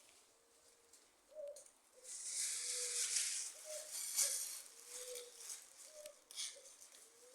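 A bird cooing: short, low, soft calls repeating every half second to a second. Louder rustling from about two seconds in to halfway, with a few shorter rustles after.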